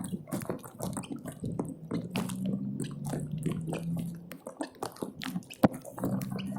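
Irregular drips and taps of rain water with wet, squishing footsteps on soaked pavement, and one sharp knock about five and a half seconds in.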